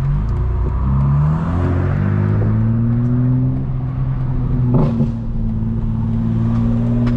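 Straight-piped BMW M4 Competition's twin-turbo straight-six running at low speed, its note rising in pitch over the first couple of seconds as it pulls away, then holding steady. A sharp click about five seconds in.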